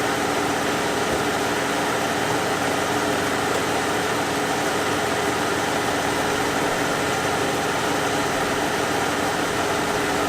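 Dodge Charger engine idling with a steady hum.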